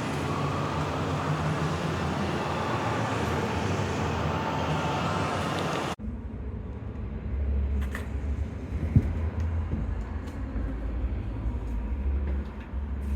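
Steady, dense background noise with a faint low hum, like machinery or traffic rumble. About six seconds in it cuts off abruptly to a lower, uneven rumble with a few light knocks.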